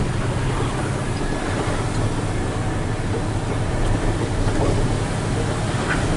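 Steady drone of a Hino 500 FM320TI truck's diesel engine and road noise heard inside the cab while driving loaded with a heavy wheel loader.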